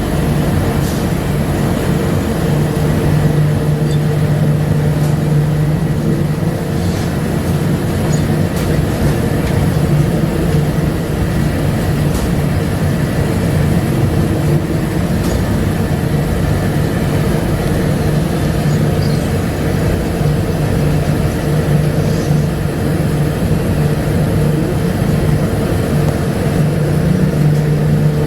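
Bombardier APM100 rubber-tyred LRT train running: a steady drone with a low hum, and a whine rising in pitch near the end as it picks up speed.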